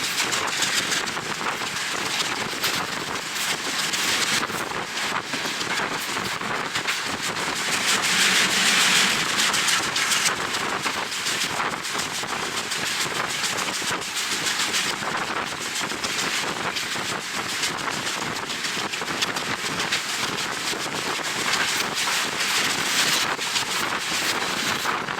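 Wind buffeting the microphone of a moving train's action camera, a steady rushing noise over the train's running sound, swelling louder twice, about a third of the way in and near the end.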